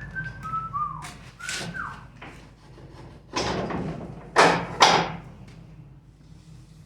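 Short falling squeaks in the first two seconds, then rustling and handling noise with two sharp knocks about four and a half seconds in.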